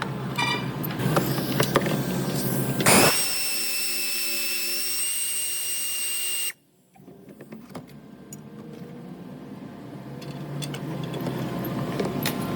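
A power tool runs with a steady high whine for about three and a half seconds and then stops abruptly. Before and after it there is a low mechanical rumble with scattered clicks and knocks.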